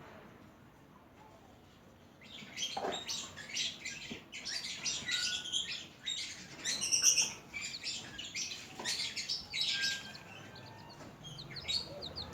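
Newly hatched chicks peeping: many short, high chirps overlapping, starting about two seconds in and thinning out near the end.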